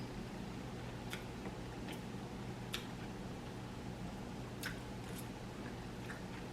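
Close-miked chewing of roast chicken: about six small wet mouth clicks and smacks, roughly one a second, over a low steady hum.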